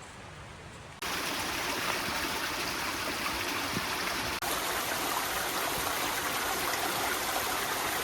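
Rushing stream water, a steady hiss that starts abruptly about a second in and cuts off at the end, with a brief break partway through.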